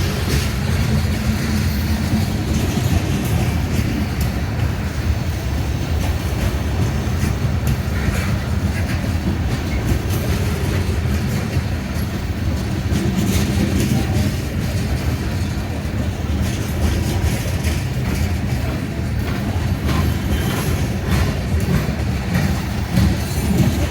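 Coal train cars rolling past: a steady low rumble, with the wheels clicking over rail joints.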